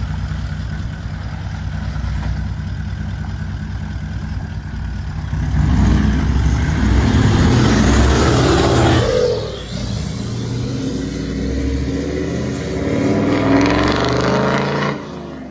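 Land Cruiser LX V8 engine running steadily, then roaring louder from about five seconds in, with a pitch that sweeps up and back down. It roars up again near the end before dropping back.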